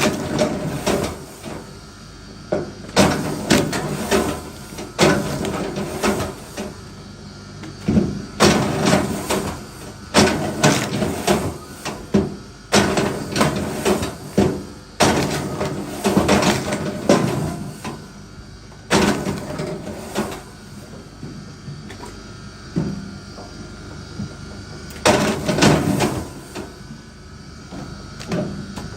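Wood being worked by hand: repeated sharp wooden knocks and clatters, singly or in short runs every second or two.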